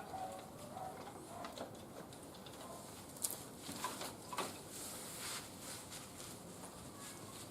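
Wood fire crackling in a barbecue grill, with irregular small pops and one sharper pop about three seconds in.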